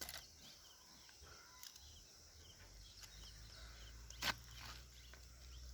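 Quiet outdoor ambience with faint scattered chirps and a low rumble, broken by a few sharp clicks, the loudest about four seconds in.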